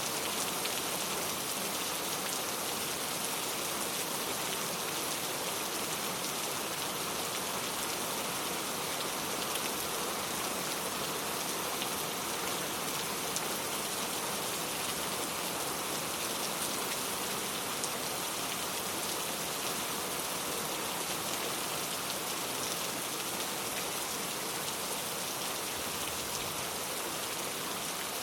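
Steady rain falling, a continuous even hiss with many fine drop ticks on a surface.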